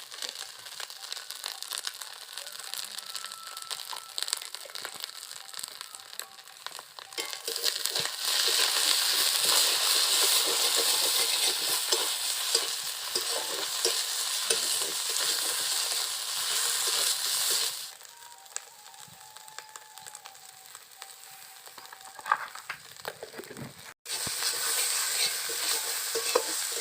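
Food sizzling in hot oil in a cooking pan as it is stirred, with scattered scrapes and clicks. The sizzle grows much louder about eight seconds in, drops back about ten seconds later, and rises again near the end.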